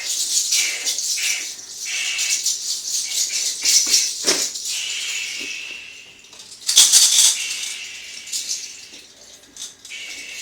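Dry, uneven rattling and rustling strokes, like a bundle of herbs and flowers being shaken and swept over a person in a limpia cleansing, with a louder burst about seven seconds in.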